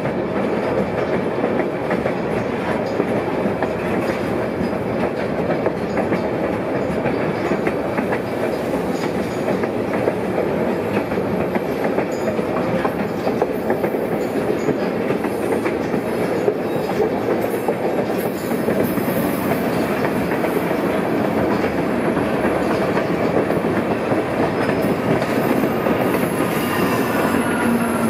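Narrow-gauge passenger train cars running along the track, a steady rumble and clatter of wheels over the rails. Near the end a faint wheel squeal rises and falls as the train rounds a curve.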